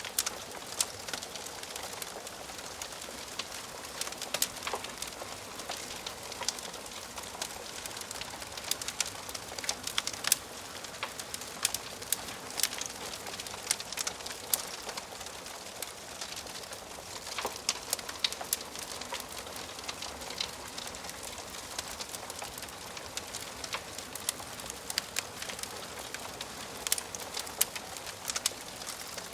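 Wood fire in a fireplace crackling, with irregular sharp pops and snaps over a steady hiss.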